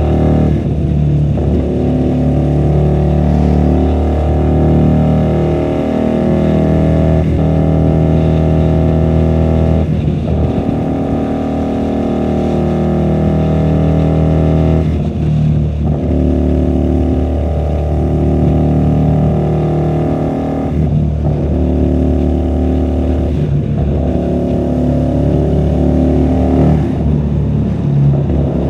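QJMotor SRV250 V-twin engine with a custom 2-into-1 exhaust, riding through traffic: revs climb in pitch, break and drop at each gear change about six times, with some stretches of falling revs as it slows. The sound is muffled, picked up from inside the rider's bag.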